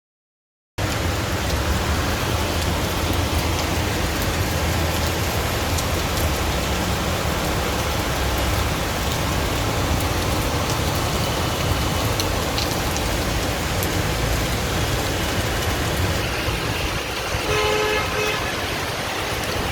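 Loud, steady noise of heavy rain and road traffic that starts abruptly about a second in. A vehicle horn honks briefly near the end.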